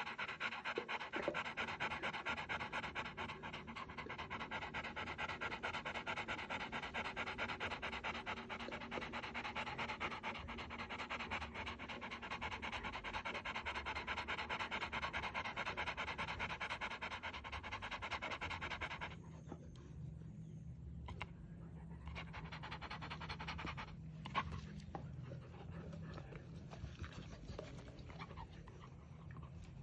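Rottweiler panting rapidly, many quick breaths a second. About two-thirds of the way through the panting becomes much quieter, leaving a faint low hum.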